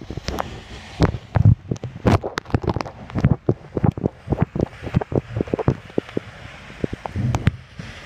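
Wind buffeting a phone's microphone, with a rapid, irregular run of sharp knocks and clicks from the phone being handled or jostled on its handlebar mount.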